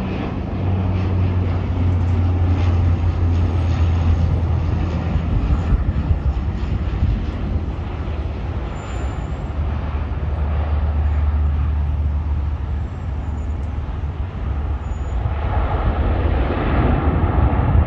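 Jet airliner engines: a steady, loud rumble with a hiss above it, growing louder near the end.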